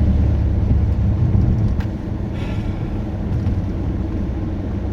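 Steady low rumble of a car's engine and road noise heard from inside the cabin while driving, with one faint click about two seconds in.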